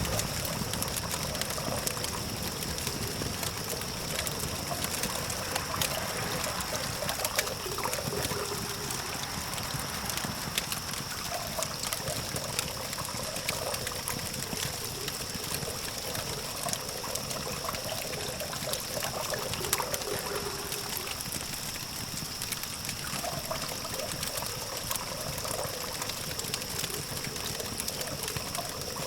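Campfire crackling, with many small sharp pops scattered over a steady hiss and the low hum of distant city traffic.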